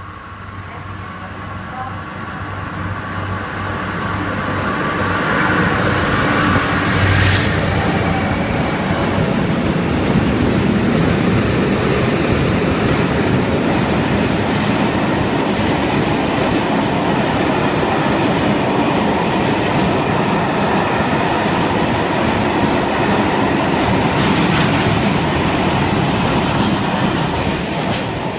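Fret SNCF freight train passing close by: the locomotive approaches, growing louder over the first several seconds, and goes by with a low engine hum. A long string of empty flat wagons then rolls past with a steady rumble and clickety-clack of wheels over the rail joints.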